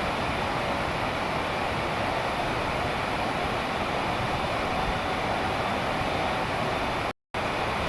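Steady rushing noise of water, from heavy rain and a fast-flowing river, unbroken except for a brief dropout near the end.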